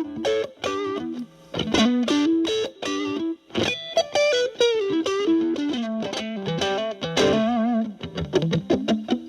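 Fender Stratocaster electric guitar through a Boss DS-2 Turbo Distortion pedal (turbo mode off, distortion at about 10 o'clock) into a Marshall Valvestate's clean channel, playing quick single-note lead phrases. A held note with vibrato comes about two-thirds of the way through.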